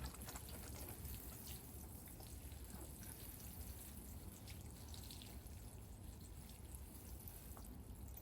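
Garden soil being pressed and firmed by hand around a sunk container: faint scattered crumbling and rustling over a low rumble.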